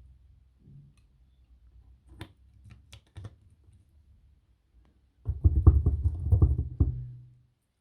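A few light clicks and taps, then a loud rattling clatter of hard objects lasting about two seconds, starting a little past halfway.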